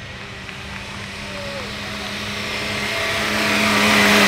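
Engine of a pre-war open two-seater sports car pulling up a steep hill climb, holding one steady note and growing louder as it approaches.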